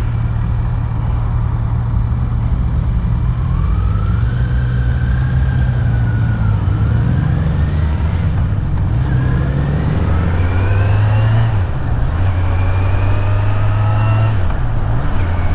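Kawasaki Z900's 948 cc inline-four engine running under way. Its pitch climbs three times as it accelerates and drops back between the climbs, as at gear changes.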